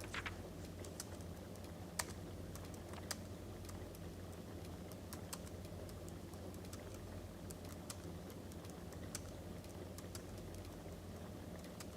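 Crackling wood fire: irregular sharp pops and snaps over a steady low rumble, with the loudest snap about two seconds in.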